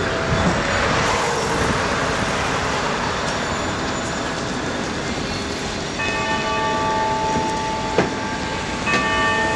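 Steady city street noise, mostly traffic. About six seconds in, a held sound of several steady tones joins it, breaks off, and comes back near the end.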